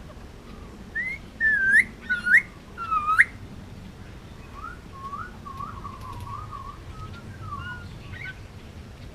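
Indian ringneck parakeet whistling: four loud, sharply rising whistle notes in quick succession, then a softer warbling chatter.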